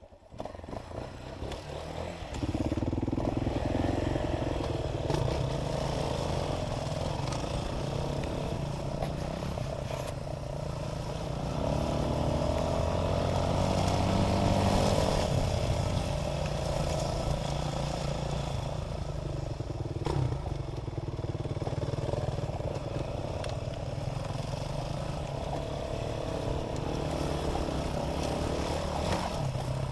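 Dirt bike engine running as the motorcycle is ridden. It builds up over the first couple of seconds, then runs steadily, with the revs rising and falling near the middle.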